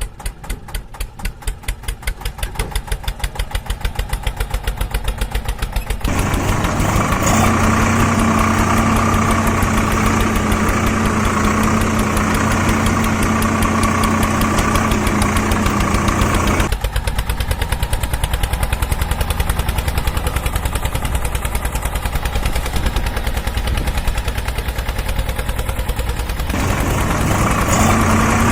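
Engine idling, chugging in even pulses for the first several seconds, then running steadily with a constant whine; the sound changes abruptly twice, about midway and near the end.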